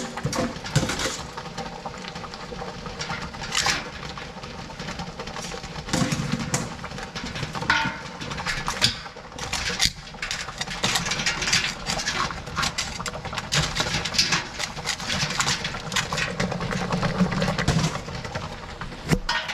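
Live blue crabs being loaded into a metal steaming pot: irregular clattering and knocking of shells and tongs against the pot. Under it runs a steady rushing noise from the pot coming up to a boil and steaming.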